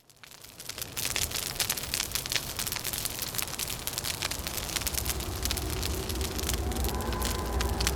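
Wood fire crackling with many sharp pops, fading in over the first second, over a low wind rumble. About six seconds in, a howling wind starts to whistle with a rising tone.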